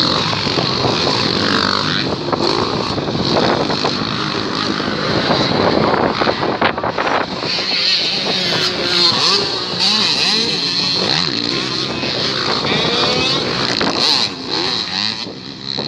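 Several motocross bikes racing, their engines revving up and falling back in overlapping rising and falling whines.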